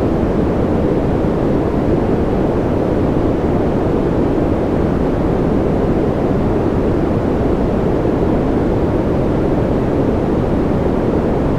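Steady synthetic sleep noise: an even, constant rush, deep rather than hissy, with no change or break.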